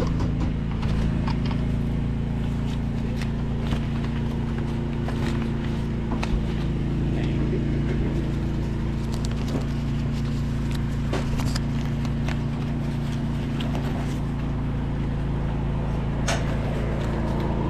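Steady low motor hum, several constant tones with no change in speed, with scattered light clicks and taps over it.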